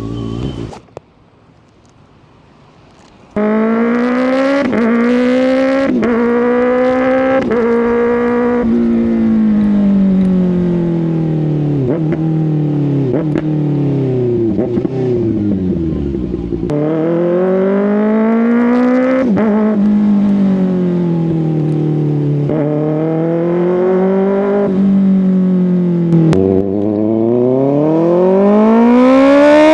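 Kawasaki ZX-6R's inline-four engine pulling hard from about three seconds in. The revs climb and drop sharply at each upshift, wind down slowly as the bike eases off, then climb again a few more times, the last pull near the end.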